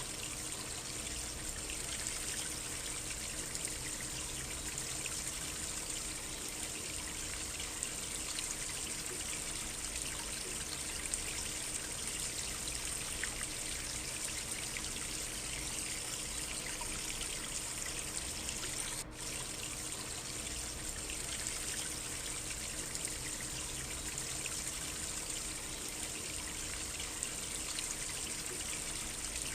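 Small stream trickling and flowing steadily, with a brief dip in level about two-thirds of the way through.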